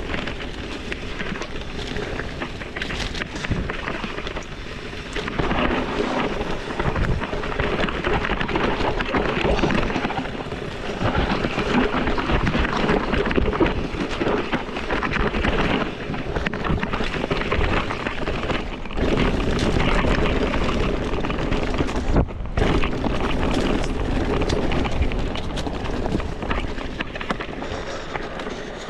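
Wind buffeting a ride-mounted camera microphone over the rumble and rattle of tyres on a rough singletrack trail, steady and loud with a brief dip about two-thirds of the way through.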